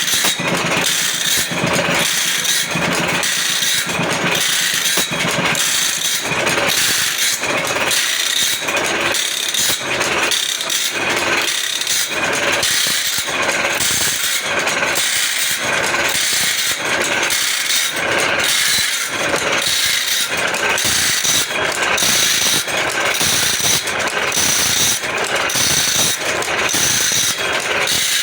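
Automatic band saw blade sharpening machine running: the grinding wheel works tooth after tooth in a steady, even rhythm, with the indexing mechanism clicking the blade forward at each stroke, over a constant grinding hiss.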